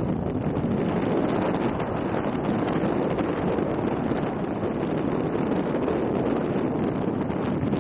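Steady rushing wind buffeting the microphone, with a low rumble underneath.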